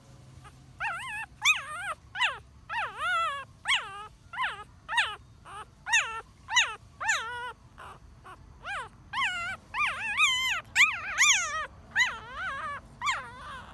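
A ten-day-old newborn puppy crying: a rapid series of high-pitched whimpering squeals, each rising then falling in pitch, under two a second, starting about a second in.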